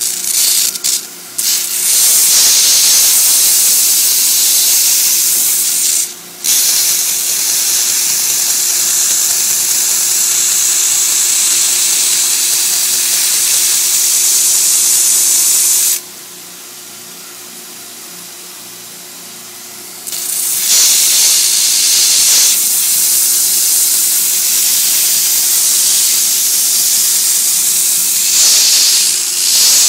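Shop-built 2x72 belt grinder, driven by a 3/4 horsepower bench grinder motor, running with a steady hum while a workpiece is pressed against the moving belt in long stretches of loud grinding hiss. The grinding breaks off briefly about six seconds in and pauses for about four seconds in the middle, leaving only the belt running.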